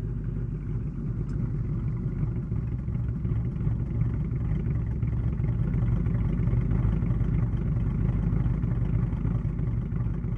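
2020 Ford Mustang, with a custom H-pipe and resonator delete and running a ghost-cam tune, giving a steady, lumpy low exhaust rumble that grows slightly louder around the middle.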